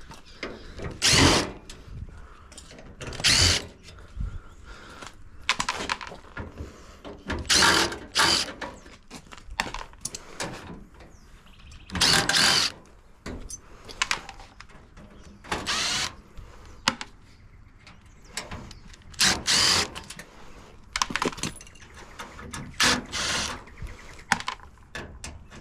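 Power drill/driver running in about ten short bursts of around a second each, backing screws out of a dishwasher's steel panels during a teardown.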